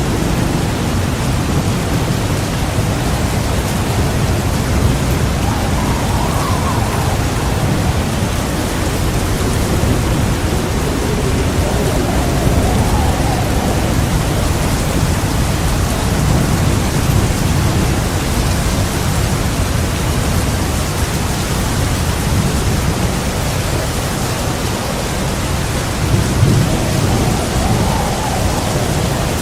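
Thunderstorm: heavy rain pouring with a steady hiss over continuous low, rolling thunder. The rumble swells a few times, most strongly near the end.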